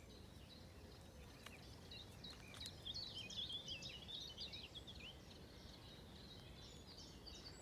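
Songbird singing: a quick run of high, varied twittering notes starting about two seconds in and lasting a few seconds, over faint low outdoor rumble.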